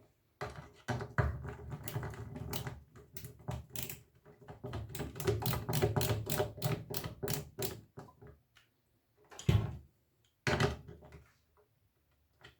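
Rapid small clicks and rattles of hand tools and metal hardware as connections on the receiver's chassis are fastened, running for several seconds, followed by two louder knocks a little after the middle.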